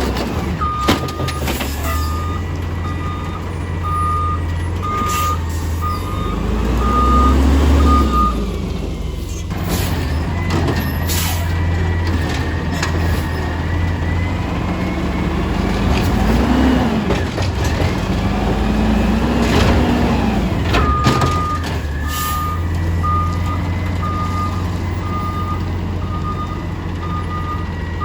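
Small automated side-loader garbage truck's engine running, with its backup alarm beeping steadily for several seconds, stopping, and starting again near the end. The engine revs rise and fall a few times in between, and there are several sharp knocks.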